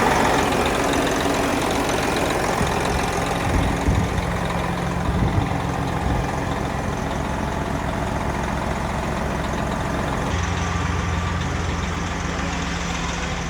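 Detroit diesel engine in a Peterbilt 389 semi-truck idling steadily, with a few short knocks about four and five seconds in.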